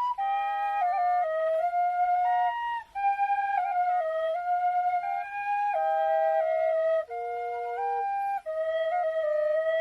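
Two B♭ quenas, one of grenadilla and one of Honduras rosewood, playing a slow melody together in harmony. The notes are clear and sustained, with short breaths between phrases.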